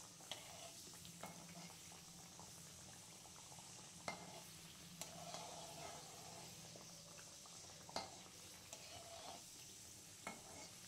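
Faint sizzling of a stuffed potato puri deep-frying in hot oil in a kadhai, with a few light clicks of a metal spatula against the pan as the puri is pressed and turned.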